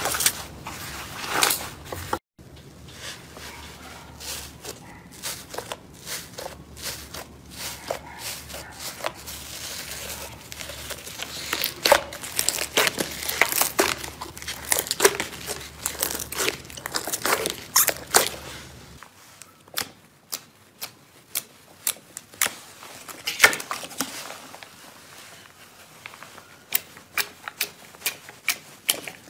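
Slime being squeezed, poked and stretched by hand, giving a dense run of crackling clicks and pops. It is quieter and sparser in the last third.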